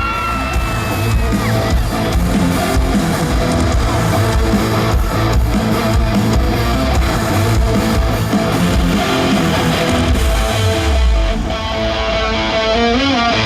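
Live rock band playing an instrumental song intro: guitar strumming over a steady beat.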